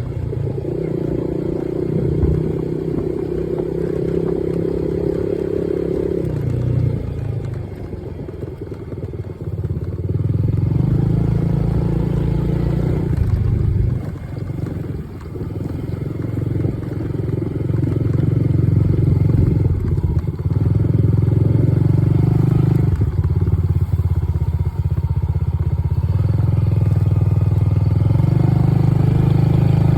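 Dirt bike engine running as it is ridden, the throttle easing off and opening up again; the engine drops back briefly about eight and fourteen seconds in, then holds louder and steadier through the second half.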